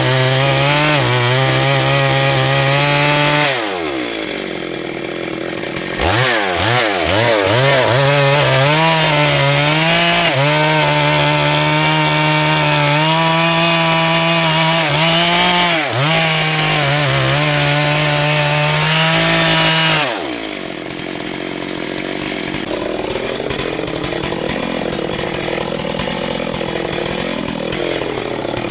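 Gas chainsaw running at full throttle while cutting wood. It eases off about three and a half seconds in and revs back up about two seconds later, wavering as it bites. It then runs steadily at high revs until it drops back to a lower, rougher sound near two-thirds of the way through.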